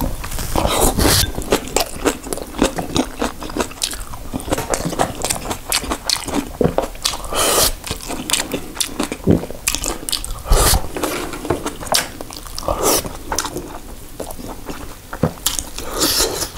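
Mouth sounds of eating kimchi with rice: wet chewing with many irregular sharp crunches.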